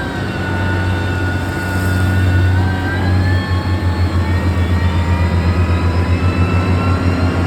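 Heavy diesel engine of a road-building machine running hard, with a high whine that rises in pitch a couple of seconds in and a rapid, even throb in the engine note from about halfway.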